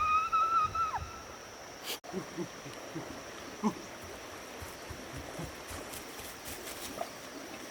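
A wavering melodic tone fades out in the first second. After a cut, insects keep up a steady high-pitched drone over quiet forest ambience, with a few faint soft knocks.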